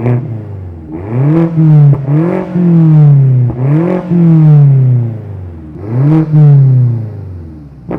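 BMW M5 fitted with an NAP valved (flap) exhaust system, its engine revved in about five loud blips, each rising quickly in pitch and then falling back slowly.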